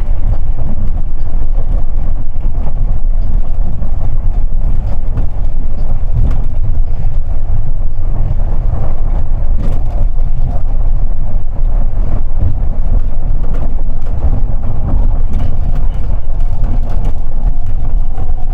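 Onboard running noise of an Osaka New Tram 200 series rubber-tyred automated people mover: a loud, steady low rumble of tyres on the concrete guideway.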